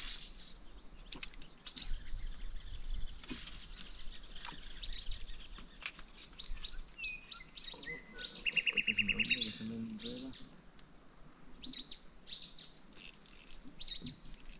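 Birds chirping, short high calls repeating every second or so. About eight seconds in comes a brief rapid rattle of about a dozen quick ticks lasting roughly a second.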